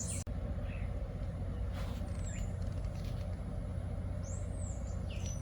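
Outdoor background ambience: a steady low rumble, with a few short high bird chirps about two seconds in and again near the end.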